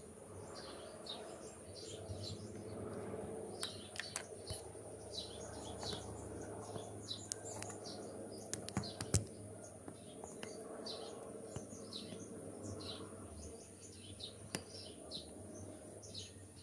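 Small birds chirping over and over in the background, short falling chirps several times a second, over a steady low hum. A few sharp clicks stand out, the loudest about nine seconds in.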